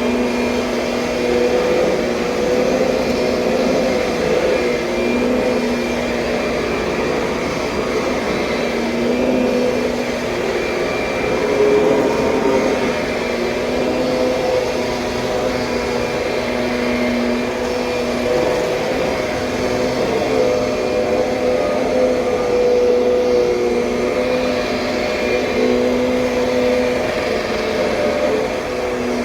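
2007 Kirby Sentria upright vacuum cleaner running steadily. Its motor hum comes and goes every second or two over a constant rush of air.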